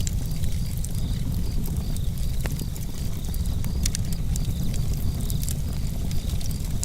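Campfire burning, a steady low rumble of wood fire close up with scattered sharp crackles and pops. Crickets chirp in a regular high-pitched rhythm behind it.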